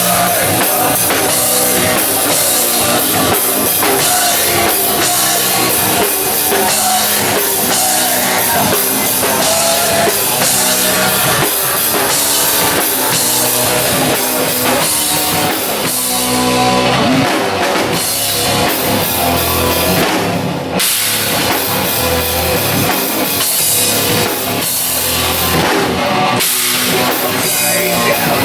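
Live rock band playing a loud instrumental passage without vocals, driven by a full drum kit.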